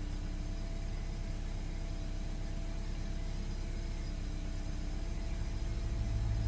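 Toyota RAV4 engine idling steadily during an idle-reset after an alternator replacement, a low, even hum that grows a little louder about five and a half seconds in.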